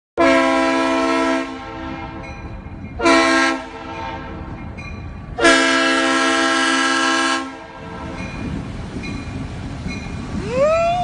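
A train's multi-tone air horn sounding three blasts, long, short, then a longer one, over a steady low rumble. Near the end a single tone glides up and holds.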